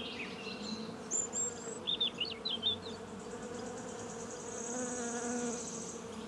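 Bee buzzing steadily in flight, a continuous hum, with a few short high chirps in the background about a second or two in.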